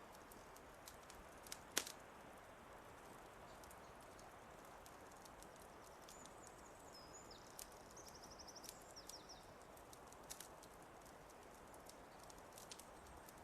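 Wood fire crackling quietly, with scattered sharp pops over a soft steady hiss; the loudest pop comes about two seconds in. A bird gives a short high trill about six to eight seconds in.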